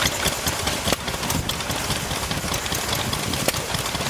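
A 1943 Wolseley WD stationary engine running steadily, with irregular clicks and rattles over its running.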